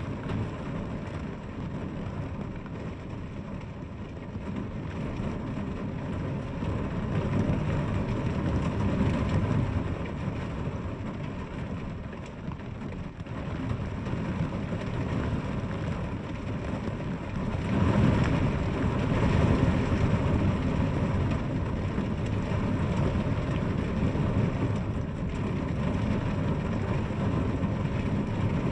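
Rain falling as a steady noise with a deep rumble under it, swelling louder about two-thirds of the way through.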